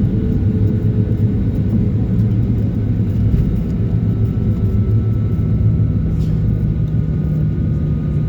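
Inside the cabin, the Boeing 737-900's engines and airframe make a loud, steady low rumble around landing, with a faint steady whine above it. About five and a half seconds in, a lower tone joins the rumble.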